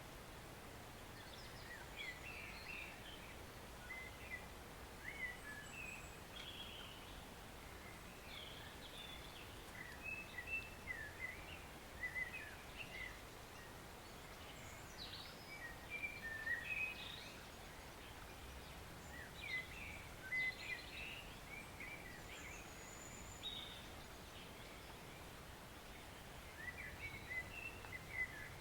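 Woodland birds singing, with many short chirps and trills coming in clusters, over the faint steady rush of a forest stream.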